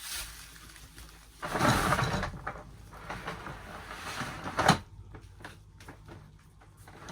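Handling noises from unpacking a plastic portable toilet: a scraping rustle, then one sharp knock about two thirds of the way through, followed by a few light clicks.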